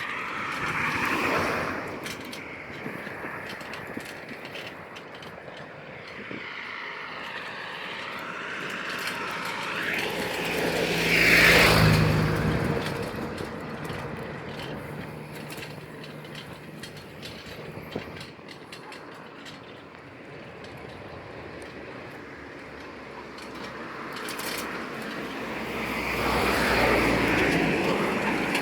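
Vehicles going by: a loud pass about eleven seconds in, with a low hum that swells and fades, and another approaching near the end.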